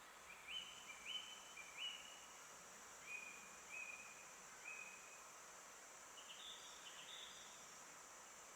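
A forest songbird singing a run of short, clear whistled notes, about one every half second, then a couple of higher notes later on. Under it runs a steady high-pitched hiss.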